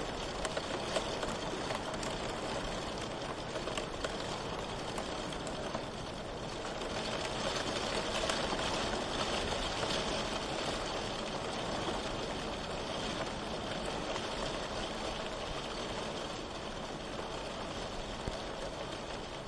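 Steady rain, swelling a little louder for a few seconds in the middle.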